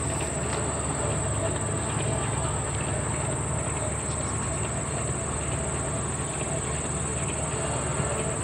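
Steady drone of propeller aircraft engines at a distance, with a constant high-pitched buzz above it.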